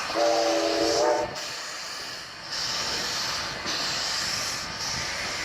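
Steam locomotive sounding a short chord whistle for about a second, then steam hissing in repeated bursts about once a second.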